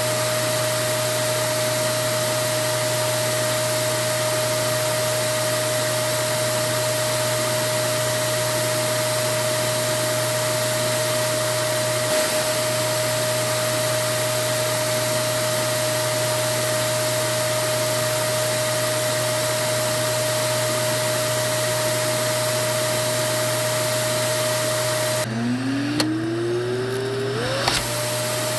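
Vacuum cleaner running steadily: an even motor hiss with a constant whine. Near the end the hiss briefly drops away and the motor's whine rises back up to full speed.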